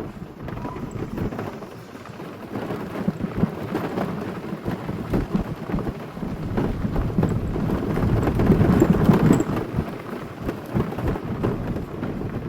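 Car tyres crunching and rumbling over a gravel forest road, a dense crackle of stones that swells and eases with the road surface.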